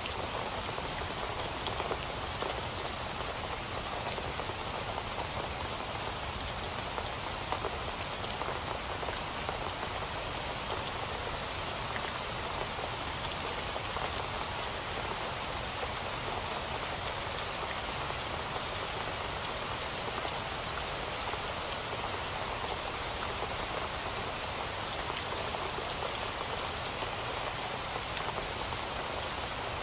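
Steady rain falling, with a constant hiss and many small drops ticking on a surface.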